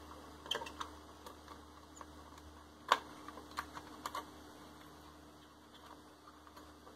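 Scattered light clicks and taps as a new LA76810B chip is positioned on a TV circuit board, about half a dozen, the sharpest about three seconds in. A faint steady hum runs underneath.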